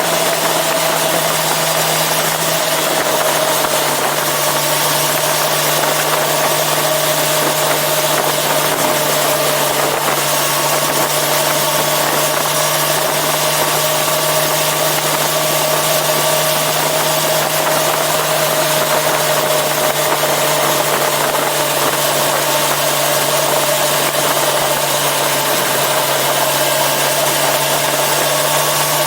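Yamaha FZ6R sportbike's inline-four engine running steadily, its pitch holding level throughout.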